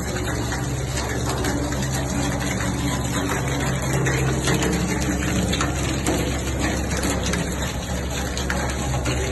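Water pouring steadily from a stainless steel garden waterfall feature, a continuous rushing splash with a steady low hum beneath it.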